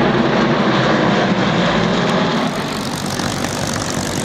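Formation of propeller aerobatic planes with nine-cylinder radial engines (360 hp) flying by, a continuous engine drone that eases slightly in level about two and a half seconds in.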